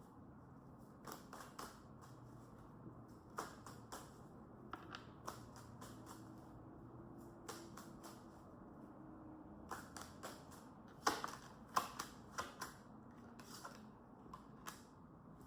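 Tarot cards being shuffled and handled: irregular light clicks and snaps of card on card, busiest about two-thirds of the way through.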